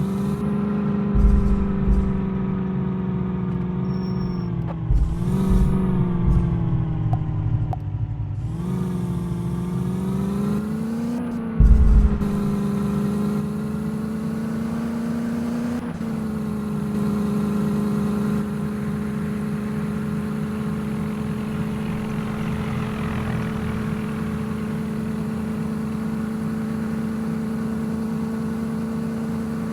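Tractor diesel engines running hard under load in a tug-of-war pull. The engine note dips and recovers several times in the first twelve seconds, then holds steady. There are short low thumps about a second in, around five to seven seconds in, and near twelve seconds.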